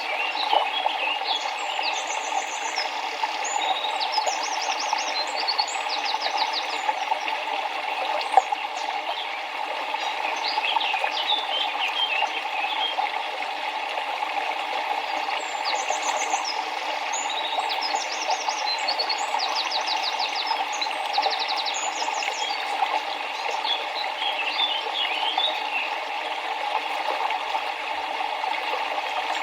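Steady rush of flowing river water with small birds chirping over it, in quick runs of high trilled notes, busiest in the first several seconds and again from about the middle on.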